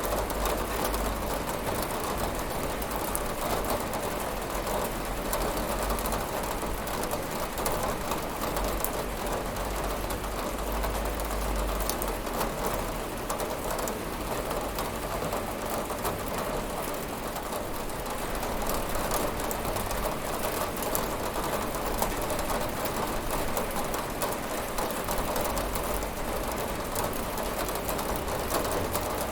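Steady heavy rain falling and pattering on a window, an even dense hiss with a low rumble underneath.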